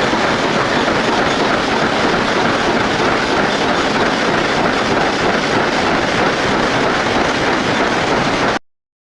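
Metal lathe running under a cut: a loud, steady, dense machining noise that stops abruptly near the end.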